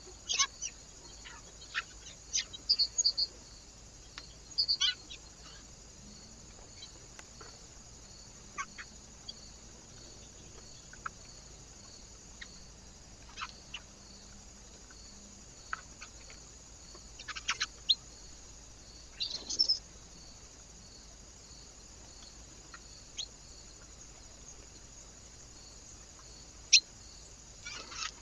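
Small birds at a bird feeder making scattered short, sharp chirps and clicks, some in quick little clusters and one loud single one near the end, over a steady faint hiss.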